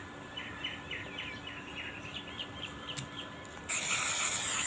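A bird chirping a quick series of short, high notes, about four a second. Near the end, a louder steady hiss starts suddenly, lasts about a second and cuts off sharply.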